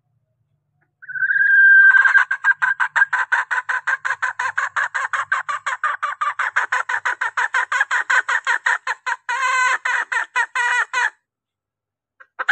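Junglefowl hen calling: a held note about a second in, then a fast, even run of clucks, about six a second, for some nine seconds, and one short call near the end. This is a hen call used to lure in cocks.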